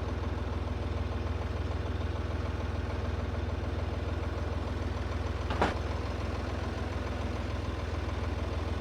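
Chevrolet Silverado pickup's engine idling steadily, with one short sharp click about five and a half seconds in.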